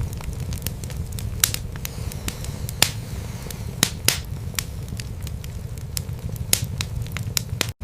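Wood fire burning in a fireplace, with frequent irregular sharp crackles and pops of the burning logs over a low, steady rumble of the flames. The sound cuts out for a split second near the end.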